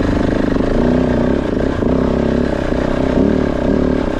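Kove 450 Rally's single-cylinder engine running as the bike is ridden, its revs rising and falling several times with the throttle.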